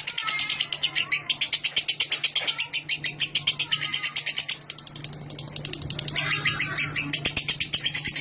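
Lovebird ngekek: a long, rapid chattering trill of sharp high notes, about nine a second. It slackens briefly about five seconds in, then picks up again.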